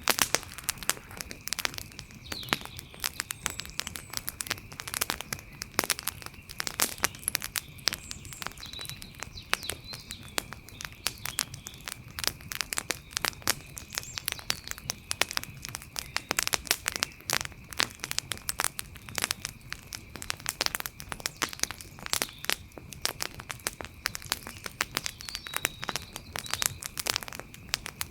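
Campfire crackling: a dense, irregular stream of pops and snaps that keeps on without let-up. Under it runs a faint steady high-pitched hum, with a few faint chirps now and then.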